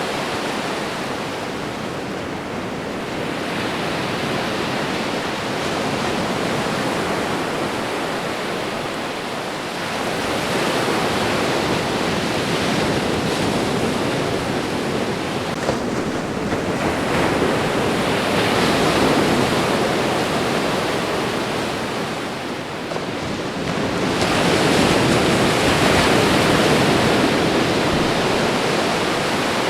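Ocean surf washing onto a shore: a continuous hiss of water that swells three times as waves break and run up the beach.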